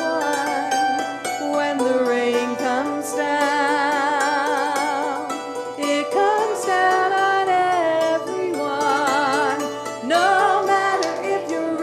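Folk music: a hammered dulcimer plays quick struck notes, with held, wavering melody notes above it.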